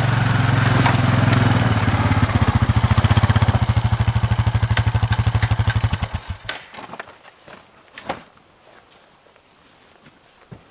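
ATV engine running with a steady low, fast-pulsing note that stops about six and a half seconds in, followed by a few light knocks.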